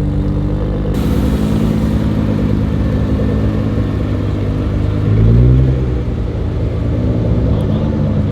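Car engine running, with one brief rev about halfway through that rises and falls in pitch.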